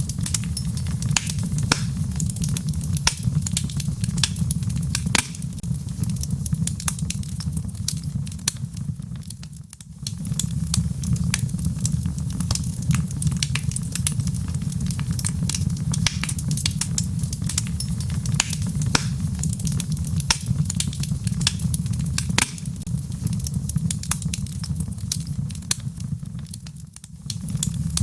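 Wood logs burning in a fireplace: a steady low rumble of flame under frequent sharp crackles and pops, the sound dipping briefly twice.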